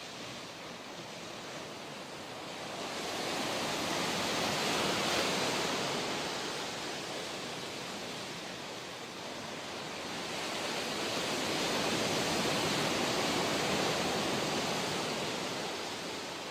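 Ocean surf: a continuous wash of waves that swells twice, as two waves break and run up, then eases off near the end.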